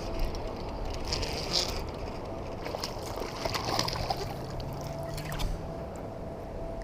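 Water sloshing and trickling around a kayak on a shallow river, with two brief splashy spells, one about a second in and one near the middle.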